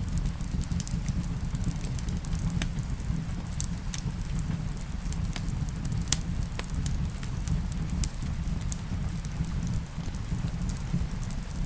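Wood fire in a fireplace crackling, with irregular sharp pops, one louder about six seconds in, over a steady low rumble of the flames and rain.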